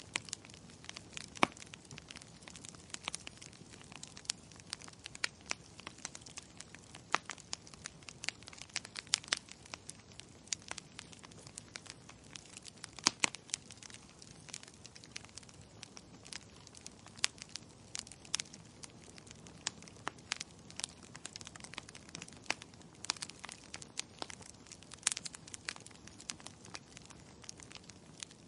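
Fireplace fire crackling: frequent, irregular sharp pops and snaps over a low, steady hiss.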